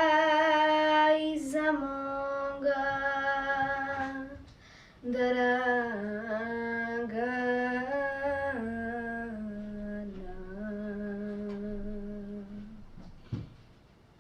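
A woman singing a traditional song solo without accompaniment, holding long ornamented notes. The last long phrase steps down and fades away, followed by a short knock near the end.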